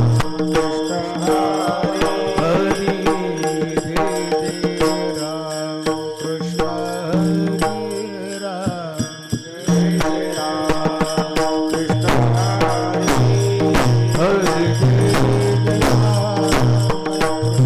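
Devotional kirtan music: a melodic sung chant over steady held drone tones, with hand-drum and cymbal beats keeping time. The accompaniment thins out briefly about nine seconds in, then returns in full.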